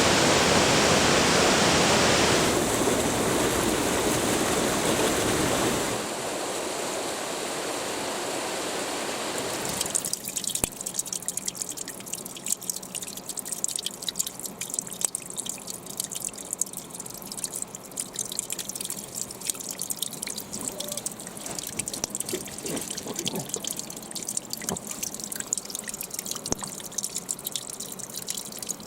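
A waterfall rushing steadily, growing quieter in steps over the first few seconds, then from about ten seconds in, close trickling and dripping water with many small splashes.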